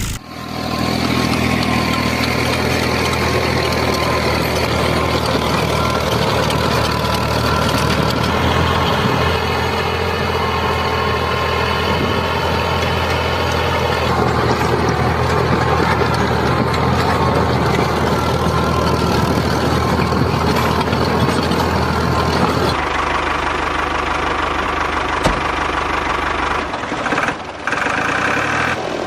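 Small motor of a DIY mini tractor running steadily under load, with a constant hum; the sound changes abruptly about 23 seconds in and briefly drops out twice near the end.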